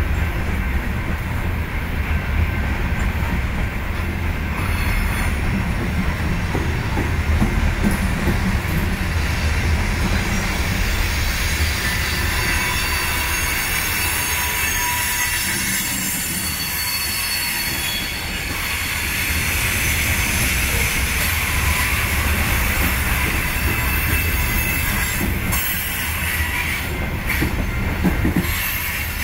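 Loaded coal hopper cars rolling slowly past, a steady rumble of steel wheels on the rails with a high wheel squeal over it.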